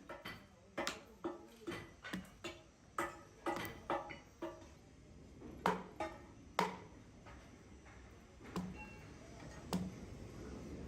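Irregular hammer blows on metal, each with a short ringing tail, over a steady low workshop hum.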